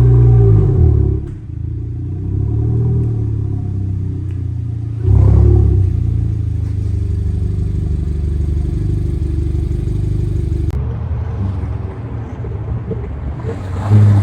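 2023 Kia K5's four-cylinder engine running through a muffler-deleted exhaust: the revs fall away at the start, a short throttle blip comes about five seconds in, and otherwise it runs steadily near idle.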